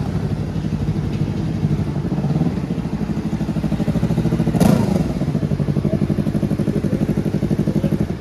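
Superbike engine running with a steady, pulsing beat, with one sharp crack about four and a half seconds in.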